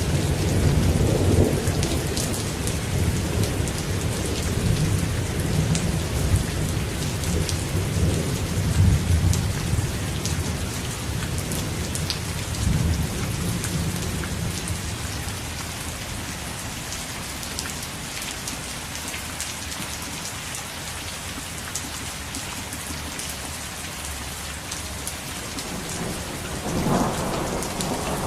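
Steady heavy rain with rolling thunder. Deep rumbling runs through the first half and dies away, leaving mostly the hiss of rain, and a new thunder rumble swells up near the end.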